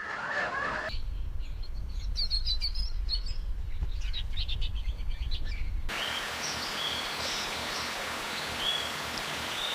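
Small birds chirping in short, high calls, first over a deep low rumble, then, after an abrupt change about six seconds in, over an even background hiss with calls repeated every second or so.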